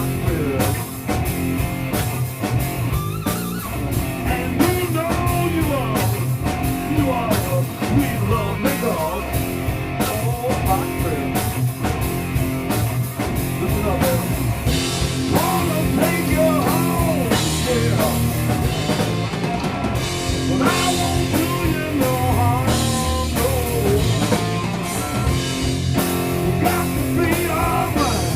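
Rock band playing an instrumental passage: electric guitar lead with bending notes over a steady drum kit beat.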